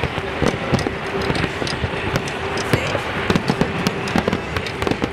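Fireworks display: a dense, rapid run of bangs and crackles from aerial shells bursting, with a steady tone held underneath.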